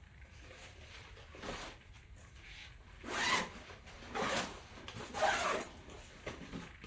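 Zipper of a fabric travel backpack being pulled in several short strokes.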